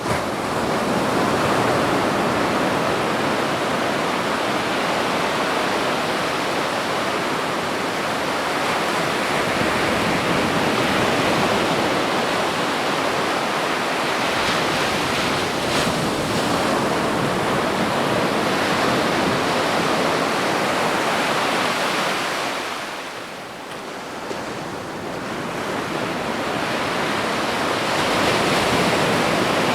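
Ocean surf washing on a beach: a continuous rush of breaking waves that eases off about two-thirds of the way in, then builds again as the next wave comes in.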